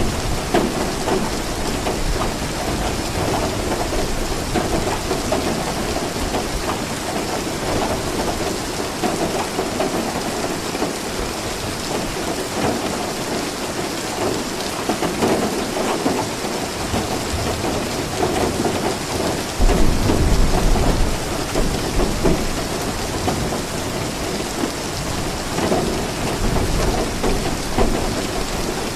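Steady rain falling, with a low rumble of thunder that swells about two-thirds of the way through.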